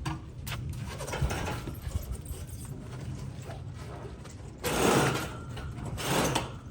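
Heavy heat pump pool heater being lowered by hand: mechanical creaks and knocks, with a loud scraping burst about five seconds in and a shorter one just after.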